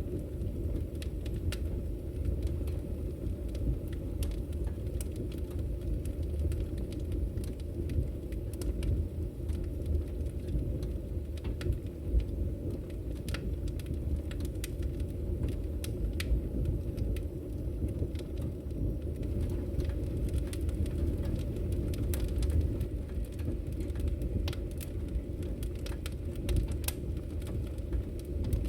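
Wood fire crackling in a fireplace: a steady low rumble of the burning fire with frequent irregular sharp pops and crackles.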